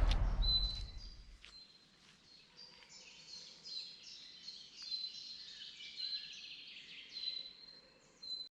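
Faint natural ambience of high, short chirps repeating several times a second over a thin steady high tone, after music fades out in the first second or so; it cuts off abruptly near the end.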